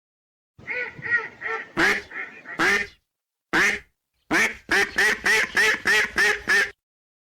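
Duck quacking: a few soft quacks, then louder single quacks, then a rapid run of about ten quacks that stops suddenly.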